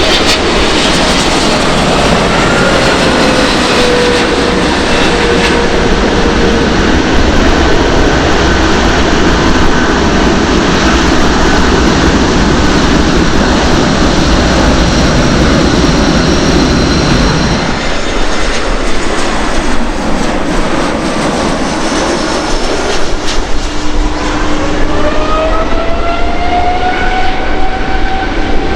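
Boeing 777-300ER's GE90 jet engines, loud and steady for the first two-thirds, then dropping off about 18 s in. Near the end the engines spool up with a rising whine.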